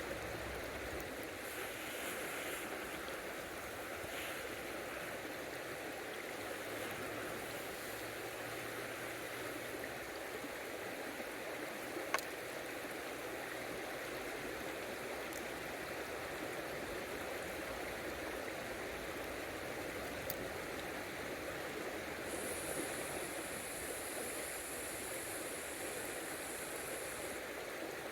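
A river flowing steadily over stones, an even rushing. A single sharp click about twelve seconds in, and near the end a high steady hiss comes in, stops briefly and returns.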